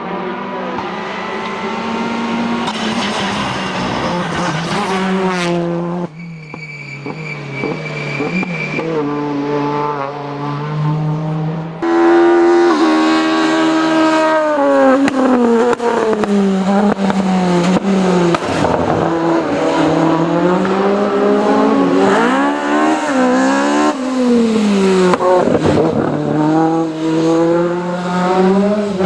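Race car engines accelerating hard up a hillclimb course, the pitch climbing and dropping back at each gear change. The sound switches abruptly about six and twelve seconds in as another car takes over.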